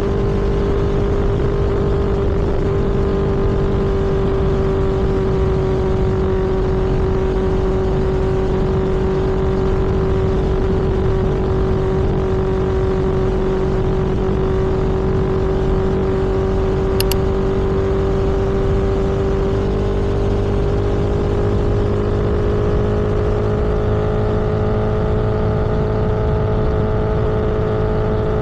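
Vehicle engine running steadily at cruising speed, with a steady drone and road rumble; its pitch rises a little about two-thirds of the way through as it speeds up. A single brief click about 17 seconds in.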